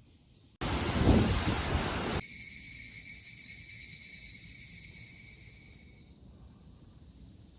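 Insects singing outdoors on a summer day: a steady high-pitched drone with a couple of held high tones that fade out near the end. About half a second in, a loud rushing noise cuts in and stops abruptly about a second and a half later.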